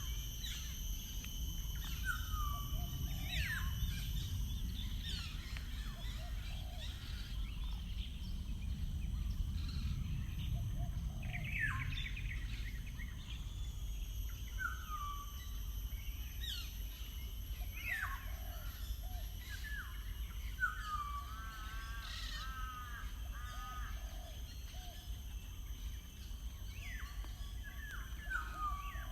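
Wild birds calling and singing: repeated short falling whistles and quick down-swept notes every few seconds, with a fast run of warbling notes about three-quarters of the way through. A steady low rumble runs underneath.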